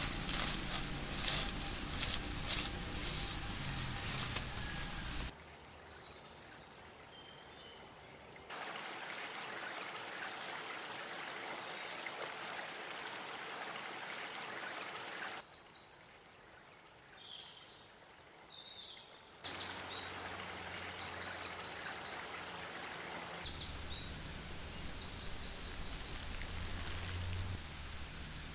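Outdoor ambience cut together from several short clips: a steady rush of running water or rain alternates with quieter stretches of high bird chirps and trills. There are abrupt changes at each cut, and a low hum under the birds near the end.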